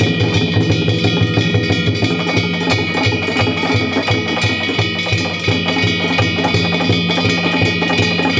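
Danjiri bayashi, the festival float's drum and hand-gong ensemble, playing a fast, steady beat. The drum strikes come about four to five a second under continuous ringing gong tones.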